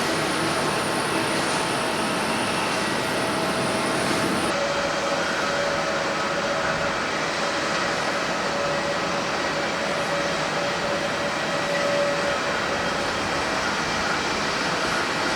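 Jet airliner engine noise, a steady rush with a faint high whine, from a JAL Airbus A350-1000's Rolls-Royce Trent XWB engines. About four and a half seconds in, a cut switches abruptly to a Boeing 767-300ER, a similar steady rush with a lower steady whine.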